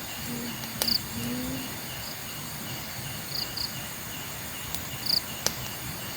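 Crickets chirping at night in a steady rhythm of about three chirps a second, with higher insect chirps now and then. A few sharp clicks and a couple of short low tones in the first two seconds sound over them.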